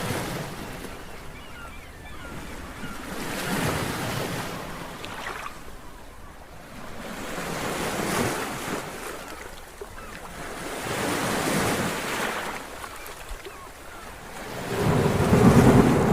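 Sea waves surging and washing in swells every three to four seconds, with wind buffeting the microphone; the loudest, fullest swell comes near the end.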